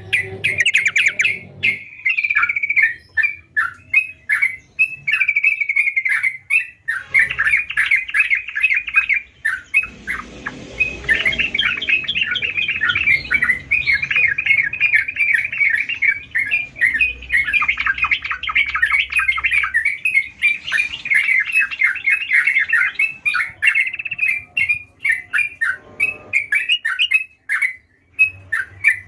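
Yellow-vented bulbul singing in rapid runs of short, chattering notes, nearly without a break from about seven seconds in, with a faint high ticking throughout.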